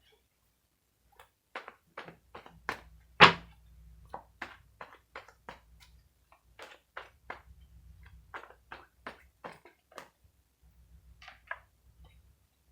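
A run of light, sharp taps and clicks from tarot cards being handled and set down on a tabletop, with one louder knock about three seconds in.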